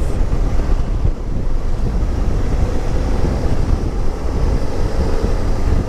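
Wind buffeting the microphone on a moving motorcycle, a loud steady low rumble, with the bike's engine running faintly underneath.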